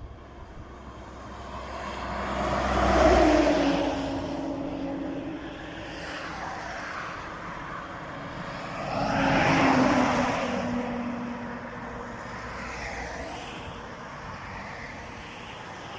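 Two trucks, a Mercedes-Benz and a Scania, driving past one after the other: the first swells up and is loudest about three seconds in, the second about nine to ten seconds in, each fading away after it passes.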